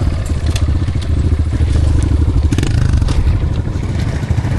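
Small off-road motorcycle engine running at low, steady revs, with a few sharp clacks and scrapes over it.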